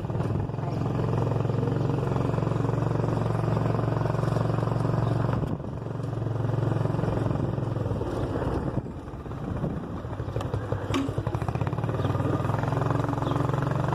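Engine of a moving road vehicle running steadily with road noise. It eases off briefly about five and a half seconds in and again around nine seconds, then picks up.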